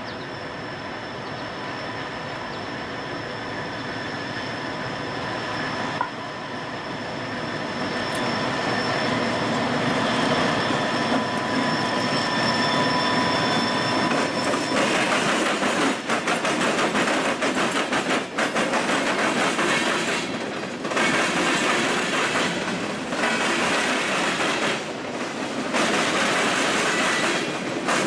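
CSX freight train with diesel-electric locomotives approaching and growing louder; the lead locomotives pass close about halfway through. Boxcars then roll by, their wheels clacking over the rail joints, with the sound rising and dipping car by car.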